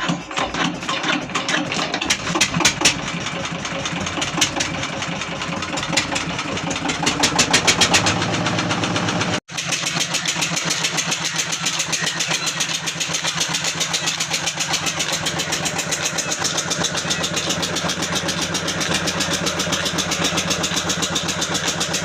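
Old Petter stationary diesel engine starting up, its beats coming quicker and louder over the first several seconds. After a brief drop-out about nine seconds in, it runs on steadily with a fast, even beat.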